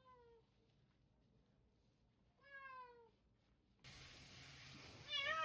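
Domestic cat meowing three times, short calls that fall in pitch, the middle one the longest. A steady hiss comes in about four seconds in.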